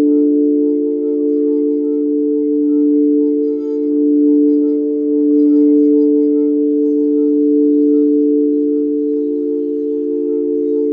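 Singing bowls ringing in several sustained low tones with faint higher overtones. The sound is held steady with no fresh strikes and a slow wavering in loudness.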